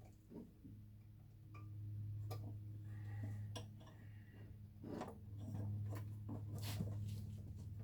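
Scattered light clicks and taps of small metal parts and tools being handled while a carburetor part is refitted, over a steady low hum.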